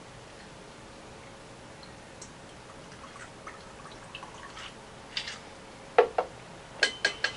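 Someone drinking from a glass in a small room: faint small liquid and clicking sounds, then a few sharper clicks and knocks about six to seven seconds in, as of the glass being handled and set down.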